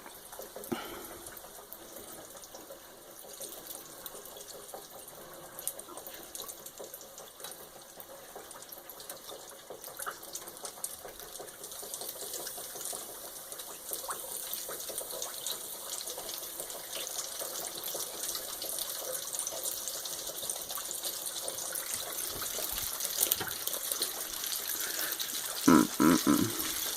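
Flour-dredged chicken deep-frying in hot oil in a pot: a steady sizzle with dense fine crackling that grows gradually louder.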